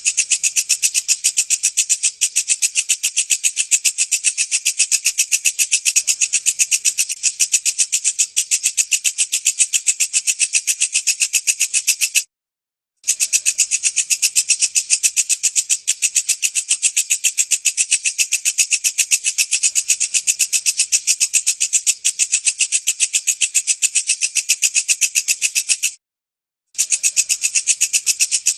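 Walang kecek katydid singing: a loud, high, fast dry rattle of rapidly repeated pulses that goes on without a break except for two sudden half-second silences, about 12 seconds in and near the end.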